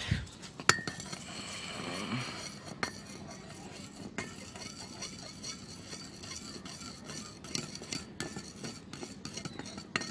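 Dye being stirred and mixed in a small container, the utensil clinking and scraping against the sides in many light ticks, with one sharper clink under a second in.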